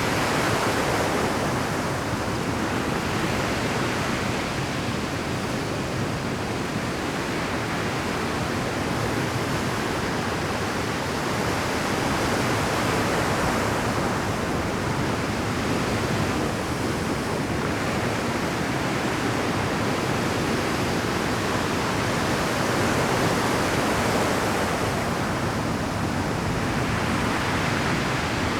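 Rough Pacific surf breaking on a rocky shore: a continuous dense rush of crashing waves that swells and eases every several seconds.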